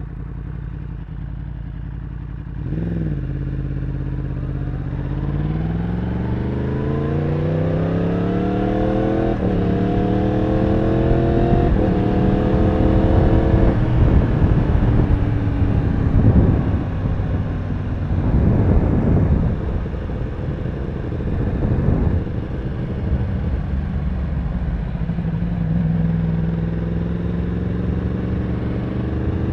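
Yamaha R1 sport bike's inline-four engine, heard from the rider's seat, blipping briefly and then accelerating, its pitch climbing steadily with a couple of quick upshifts. In the middle a rushing noise with gusty peaks, wind buffeting the helmet camera, covers the engine. Near the end the engine runs at a steadier, lower pitch and slowly rises again.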